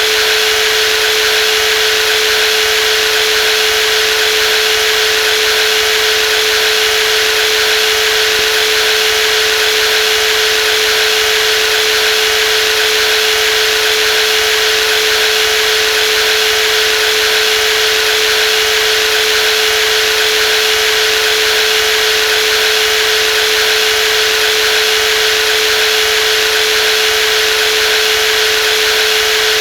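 Brushless jigsaw running steadily with a constant high hum and a hiss, no change in speed.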